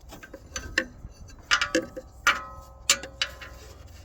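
Hand tools and bolts clinking on metal: a few sharp, irregular metallic knocks, some leaving a short ringing tone.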